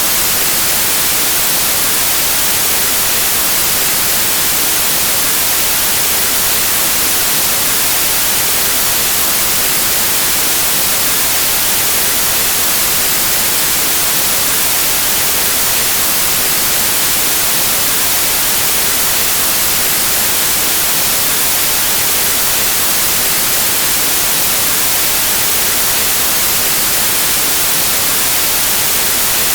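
Steady, loud white noise: an even static hiss with no changes.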